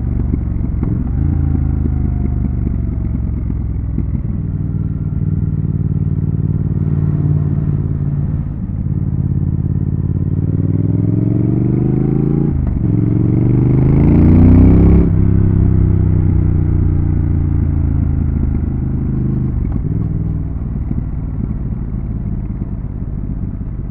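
Triumph Thruxton RS 1200 cc parallel-twin engine under way, running steadily at first. About a third of the way in the rider opens the throttle and the pitch climbs, with a short break for a gear change. It is loudest about fifteen seconds in, then the throttle closes and the engine settles back to a steady cruise.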